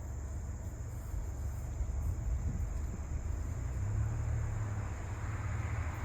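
Outdoor ambience: a steady low rumble with a faint hiss above it that swells slightly near the end.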